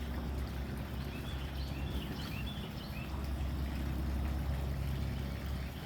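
A few short, high bird chirps about two to three seconds in, over a steady low outdoor rumble.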